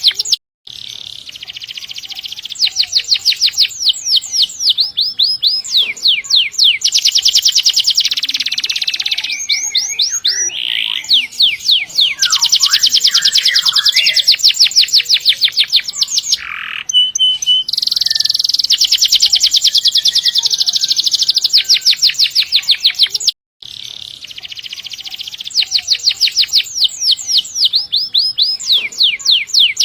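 Domestic canary singing vigorously in long rolls: fast trills of rapidly repeated high notes run into sustained buzzing rolls. The song breaks off abruptly for a moment twice, just after the start and again about 23 seconds in.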